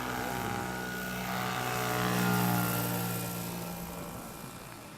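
Electric RC scale model Chinook's tandem rotors humming steadily in flight, growing louder about two seconds in, then fading away.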